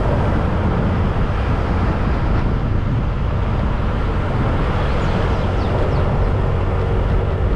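Motorcycle on the move: a steady low engine hum under a constant rush of wind and road noise. A few faint high chirps come through about five to six seconds in.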